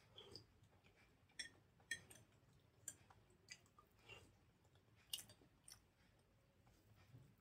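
Faint wet chewing and lip-smacking from eating soft idli soaked in sambar off a spoon: a series of short clicks and smacks, roughly one every half second to second.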